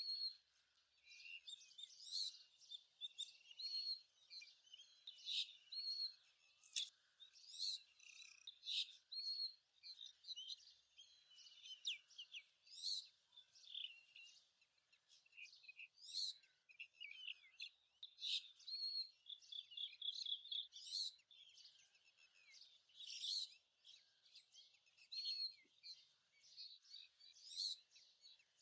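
Faint birdsong: a continuous chorus of short chirps, twitters and brief high whistled notes, with one short whistle note repeated every couple of seconds.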